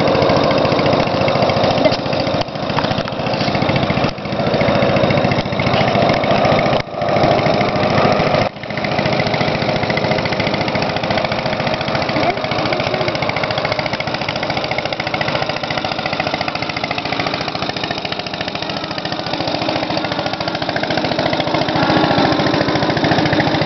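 Helicopter in flight: a steady, loud drone of engine and rotor noise with a fast, even chop.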